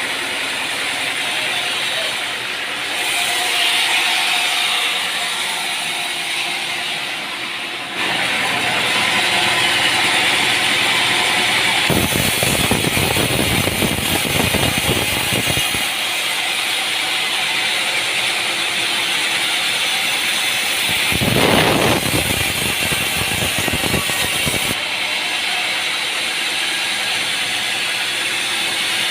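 Sawmill machinery running, a steady mechanical noise with rattling. It changes abruptly several times, with rougher, louder stretches.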